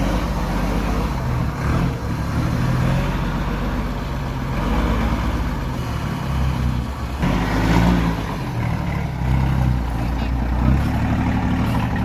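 Heavy truck engine running at a low, steady pitch, with its engine note shifting about seven seconds in.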